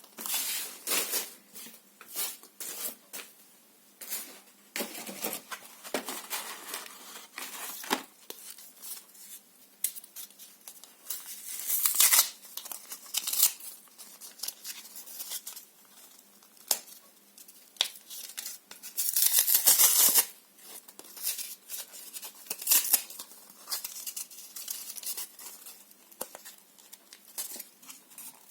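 Paper and cardboard being torn by hand, close up: a run of separate rips of different lengths with crinkling between them. The longest and loudest tear comes about two thirds of the way through.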